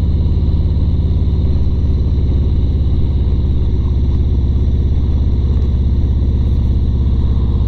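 Harley-Davidson Road Glide Standard's V-twin engine running steadily while riding, a low even rumble with a regular pulsing beat, heard through a wind-shielded lavalier mic on the bike.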